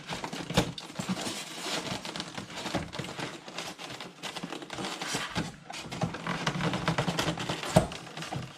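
Polystyrene foam packaging squeaking and crackling as an RC truck is worked loose from its foam insert, with a few sharp knocks, the loudest near the end.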